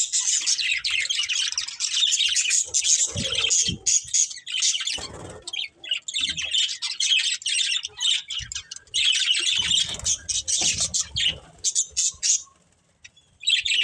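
Budgerigars chattering and chirping in rapid, continuous bursts of squawks and tweets, falling quiet for about a second near the end.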